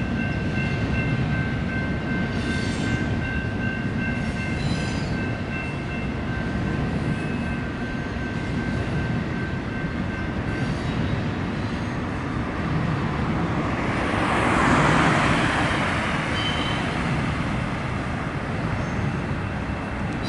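Intermodal freight train cars rolling past on the rails: a steady rumble with thin, high wheel squeals that die away about halfway through. A brief louder swell of noise comes about three-quarters of the way in.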